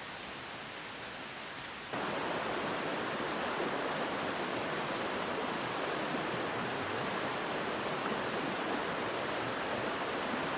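Steady rushing water noise, even and unbroken, that jumps louder about two seconds in.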